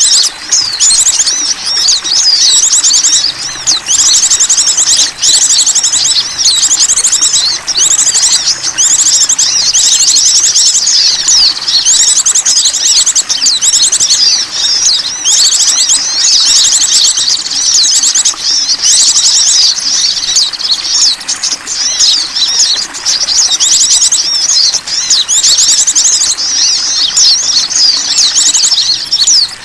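Small songbirds chirping and trilling in a dense, unbroken chorus of high-pitched calls, with fast rattling trills every second or two. This is a lure call (pikat) recording meant to draw in small wild birds.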